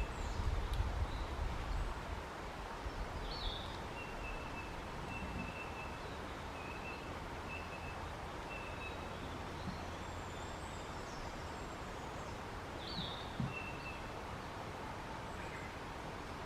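Small birds calling outdoors: a series of short, even whistled notes and a couple of quick falling chirps over a steady background hiss, with a low rumble in the first two seconds.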